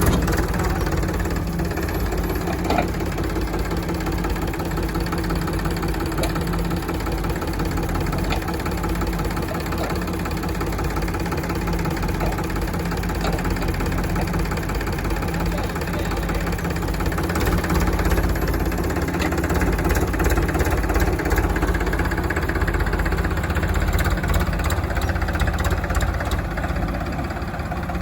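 Diesel engines of a JCB 3DX backhoe loader and a Powertrac Euro 50 tractor running steadily, with a few scattered knocks. The sound gets a little louder in the second half.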